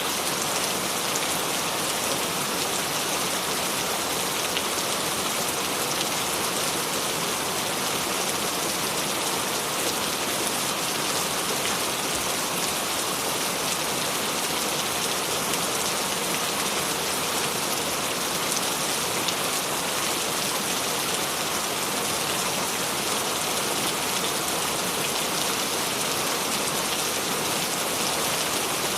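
Steady rain falling on a surface, a dense even patter of drops with no change in intensity.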